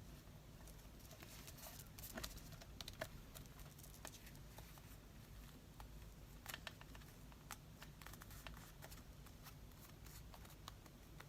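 Faint scattered taps and light paper rustling from hands working paper and craft tools on a tabletop, over a low steady room hum.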